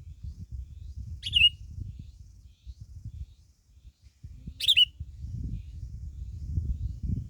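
A songbird giving short, sharp calls that sweep down in pitch, twice, about three seconds apart, over a steady low rumble.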